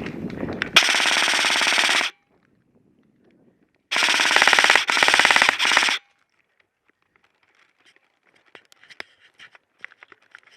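Airsoft gun firing on full auto: one burst of just over a second, then after a pause three short bursts in quick succession. Faint scattered clicks follow.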